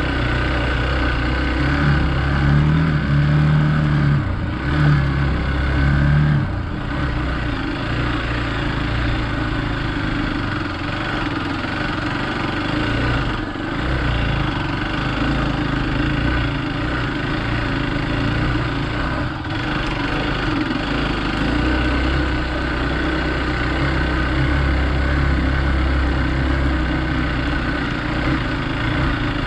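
Hero Xpulse 200 motorcycle's single-cylinder engine running as the bike is ridden off-road, its note shifting up and down with the throttle.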